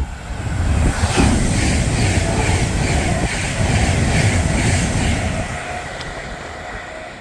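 Class 390 Pendolino electric train passing through at speed: a loud rush of wheel and air noise that builds about a second in, holds, then fades away over the last couple of seconds.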